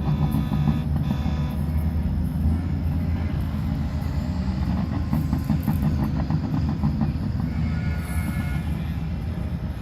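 A stream of heavy semi trucks driving past, their diesel engines running with a steady heavy rumble.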